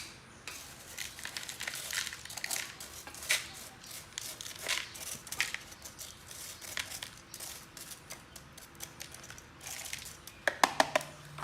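Irregular crinkling and rustling of something being handled, with scattered small clicks and taps and a quick run of louder taps near the end.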